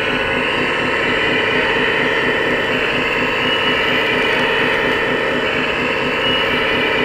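Small electric motor and gearing of a 1/14-scale RC construction machine running steadily, a dense mechanical whirr with a fast, even chatter.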